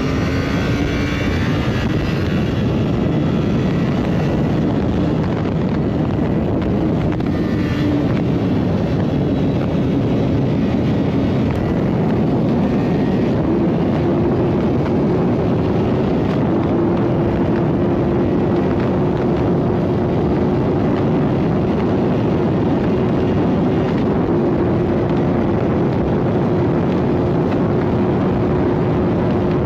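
Motorcycle engine running at a steady high speed under a heavy rush of wind on the microphone; the engine note holds steady and edges up a few times.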